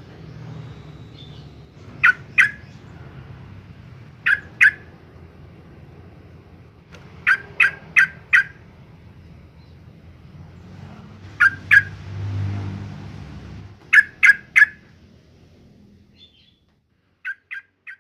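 Yellow-vented bulbul calling: short, sharp, loud notes in quick clusters of two to four, repeated every few seconds. A low rumble runs underneath, swelling briefly about twelve seconds in.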